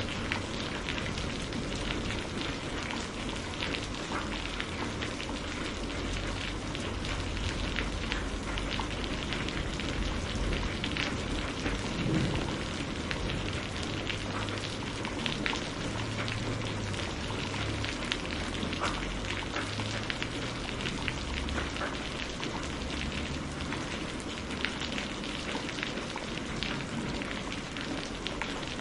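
Steady rain falling, mixed with scattered small crackles and pops from a burning wood fire.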